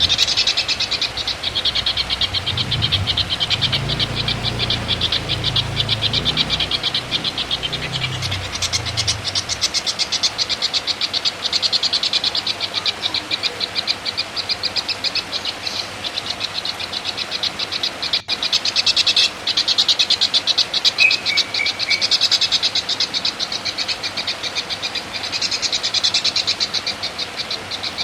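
Recorded songbird masteran: a fast, rattling, high-pitched chatter of rapid pulses that runs on without a break, swelling louder at times. A low hum sits underneath for the first several seconds.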